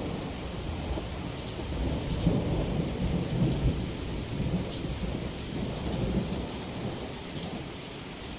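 Steady heavy rain with a low rumble of thunder rolling on, swelling a couple of times and then dying away near the end.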